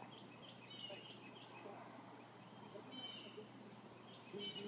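Faint outdoor bird calls: short, high chirping calls about a second in, again about three seconds in and near the end, with softer chirps between.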